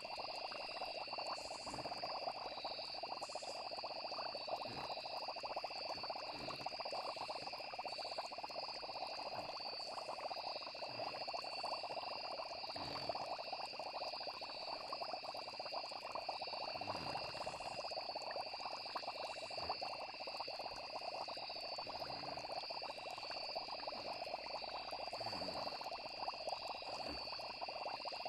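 A steady night chorus of chirping crickets and frogs over a continuous cauldron bubbling, with soft low bubble pops every second or two.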